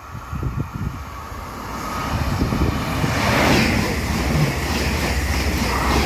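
Double-deck electric passenger train passing through the station at speed: a rising rumble of wheels on rail and a rush of air that grows as it approaches and is loudest as the carriages go by.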